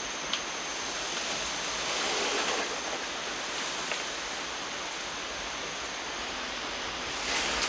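Steady rushing noise, with a faint high steady whine that stops near the end and a couple of faint ticks.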